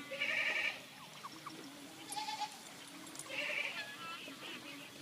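Goats bleating: two short, quavering bleats, one right at the start and another about three and a half seconds in.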